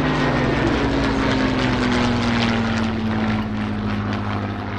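Piston-engined WW2 fighter planes flying past, engine drone with a propeller beat. The engine note falls slowly in pitch as they pass.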